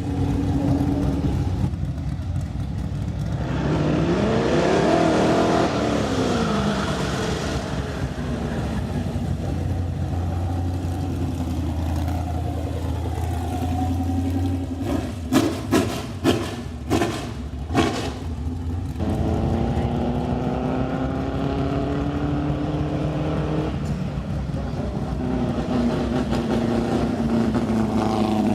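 Vintage race car engines running and revving, one car passing by about five seconds in with its engine note rising and falling. Several sharp knocks come close together around the middle.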